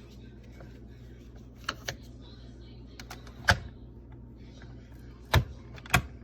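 A series of short, sharp clicks and knocks over a steady low hum, the three loudest in the second half.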